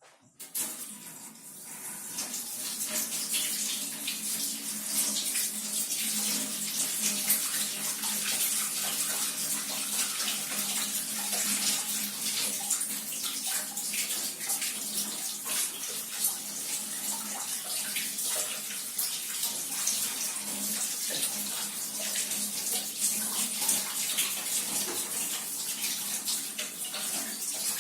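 Kitchen tap running hot water over a dishwasher filter being rinsed in the sink, a steady splashing rush that builds over the first couple of seconds.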